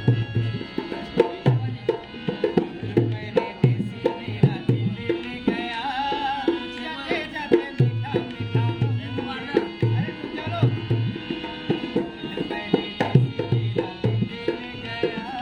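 Indian folk music accompanying a puppet show: a hand drum beats a steady rhythm under a steady drone, and a wavering melodic line stands out in the middle.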